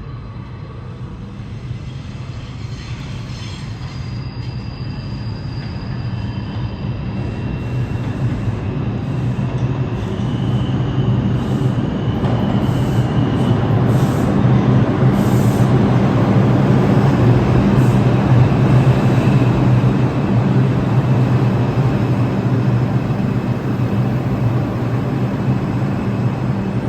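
A Bombardier R142 New York City subway train approaching and running into the station, growing steadily louder over about the first fifteen seconds, then holding, with a steady low hum and faint high wheel squeals.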